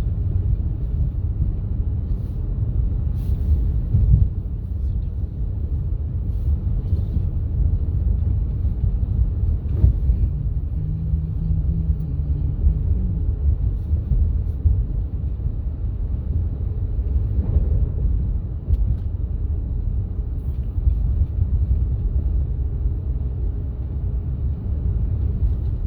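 Steady low rumble of a car driving on a snowy road, heard from inside the vehicle.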